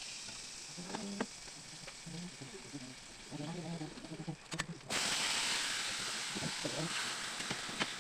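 Food hitting hot oil in a pan and sizzling, starting suddenly about five seconds in and slowly tapering off. Faint voices are heard before it.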